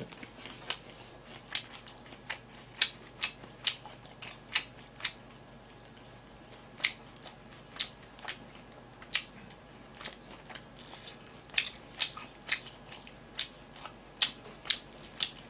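A person chewing food close to the microphone: a string of sharp, wet mouth clicks and smacks, irregular, about two a second with a short lull partway through.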